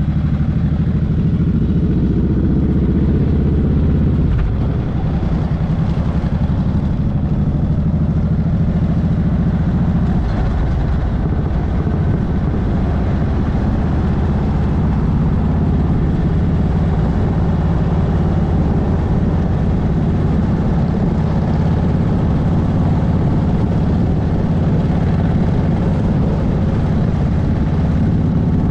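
Motorcycle engine running steadily while riding at a constant speed.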